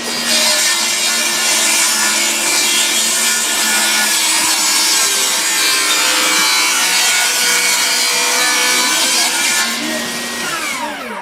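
Electric power saw cutting through a wooden board, a steady loud whine with the sound of the wood being cut. Near the end the blade is free and the motor winds down, falling in pitch.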